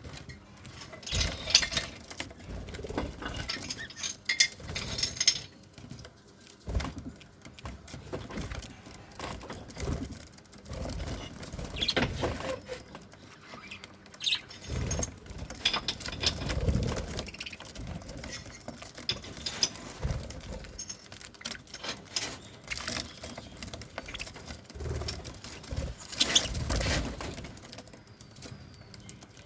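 Budgerigars moving about a cage: irregular rustling, scratching and wing flaps, with scattered short high chirps.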